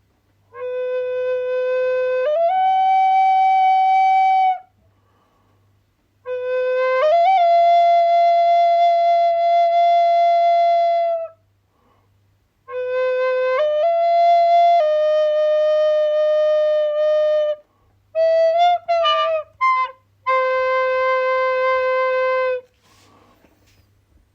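Solo flute playing a slow melody of long held notes in phrases of a few seconds each, separated by brief pauses, with a quick run of short ornamented notes about eighteen seconds in before a final held note.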